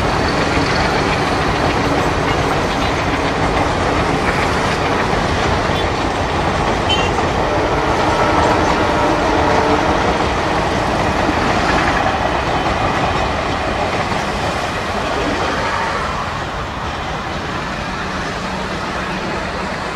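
A train running past on the rails: a steady rush of wheel and rail noise that eases a little near the end.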